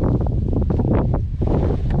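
Strong wind buffeting the microphone, a loud, continuous low rumble.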